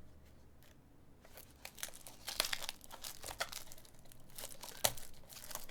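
Crinkling and tearing of trading-card pack wrappers being opened and handled. It is quiet for about the first second, then a run of short crackles follows, with a sharper click near the end.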